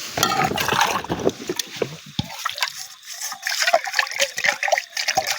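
Wet food being stirred and mixed in a cooking pot: sloshing and splashing with many quick clicks and scrapes, busiest in the first two seconds.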